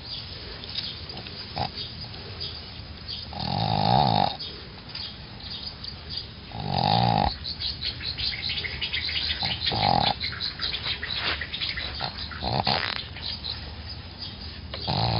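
A sleeping dog snoring: five loud snores, about one every three seconds, with faint clicking breaths between them.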